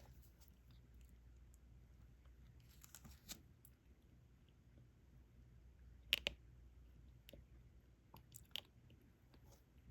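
Faint scattered clicks and light rattles of small plastic diamond painting drills and tools being handled, with a sharper click about six seconds in and two more about eight and a half seconds in.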